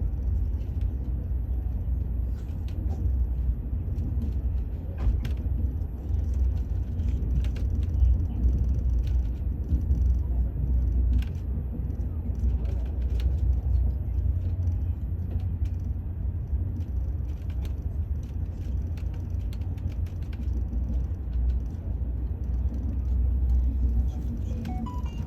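Steady low rumble of a moving vehicle, with scattered light clicks and knocks over it.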